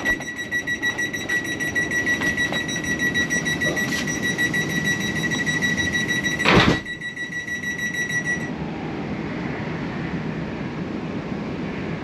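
A passenger train's door warning alarm sounds a steady high-pitched tone for about eight seconds. The doors close with a loud thud about six and a half seconds in. A low rumble from the train runs underneath.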